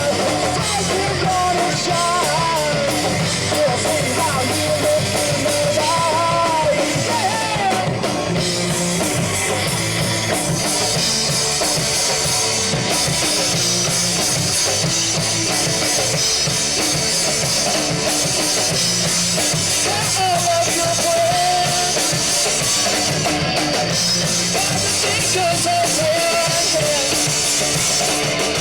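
Live rock band playing loudly: drum kit and electric guitars, with a wavering melody line above them in the first eight seconds and again from about twenty seconds in.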